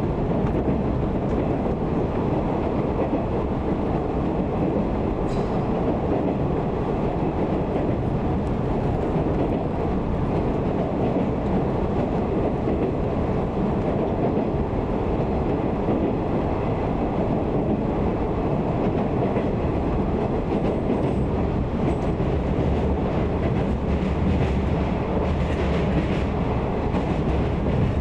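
A JR 185 series electric train running along the line, heard from inside the passenger car: a steady rumble of wheels on rail and running gear.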